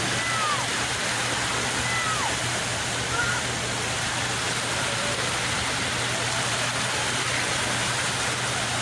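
Sea waves washing onto the shore, an unbroken steady hiss of surf. A few faint, short falling calls sound over it in the first few seconds.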